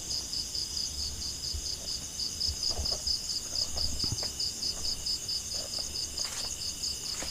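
Insects chirping in a steady, high-pitched pulsing trill, about five pulses a second, with a faint low rumble and a few soft knocks underneath.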